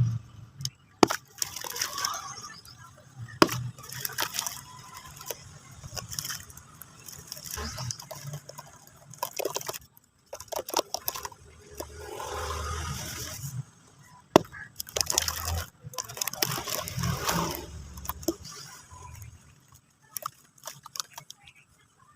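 Cement chunks crumbled and crushed by hand: irregular crunches and sharp cracks with gritty scraping, partly wet and watery. The sharpest crack comes a little past the middle.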